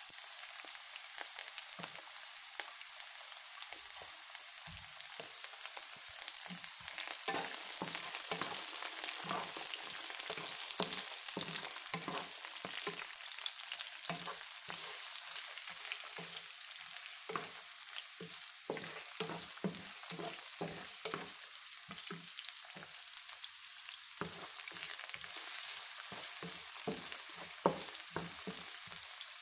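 Sliced carrots, onion and garlic sizzling in hot oil in a pan, with a wooden spatula stirring and scraping them in many short strokes, mostly after the first few seconds.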